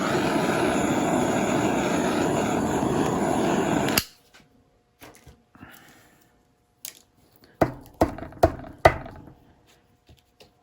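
Handheld butane torch lit with a click and hissing steadily for about four seconds, then shut off abruptly, as it is passed over wet paint to pop air bubbles. About four sharp knocks follow later.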